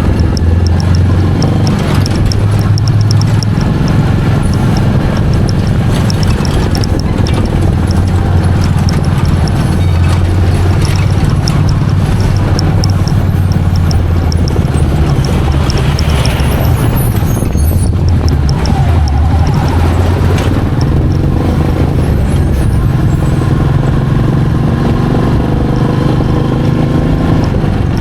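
Royal Enfield Meteor 350's single-cylinder engine running on the move, its low exhaust note rising and falling with the throttle.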